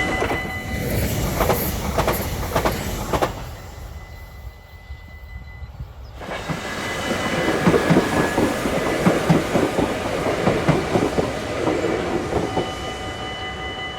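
NS Sprinter Nieuwe Generatie electric multiple unit running by on the track, its wheels clacking rhythmically over rail joints. The clacking fades away, then after a sudden change about six seconds in builds again, with faint steady high-pitched tones over it, before easing off near the end.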